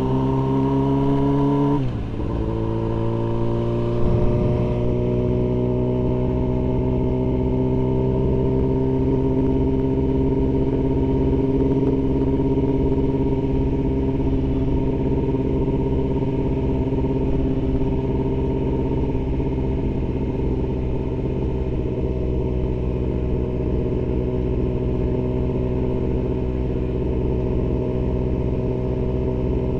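Yamaha R6's inline-four engine under way: revs rise, drop sharply about two seconds in, then climb gently and settle into a steady cruising note.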